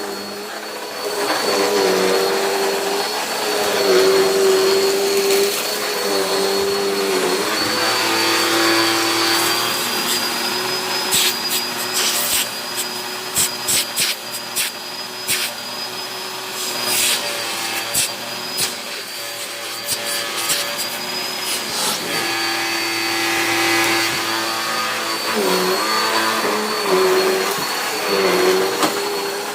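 Dirt Devil Power Express upright vacuum cleaner running on carpet, its motor whine wavering a little in pitch as it is pushed back and forth. In the middle comes a run of sharp clicks and rattles.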